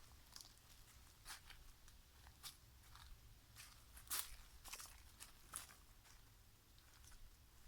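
Faint footsteps crunching on the forest floor, a scatter of soft crackles and ticks at uneven intervals, the loudest a little past halfway.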